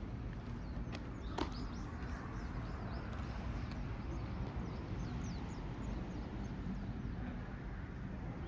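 Small birds chirping over and over in short, quick falling notes, over a steady low rumble of outdoor background noise, with one sharp click about a second and a half in.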